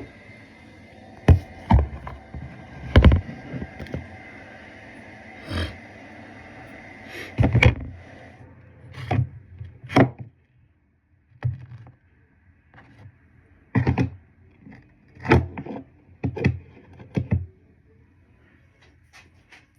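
A series of irregular knocks and thumps, a dozen or so, some heavy and low, with a faint steady hum beneath that drops away about halfway through.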